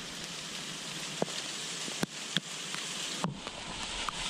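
Heavy rain falling steadily, with a few sharp taps scattered through it.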